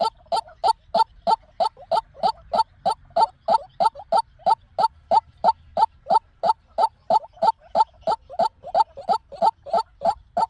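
White-breasted waterhen calling: a monotonous, evenly spaced series of short notes, about three a second.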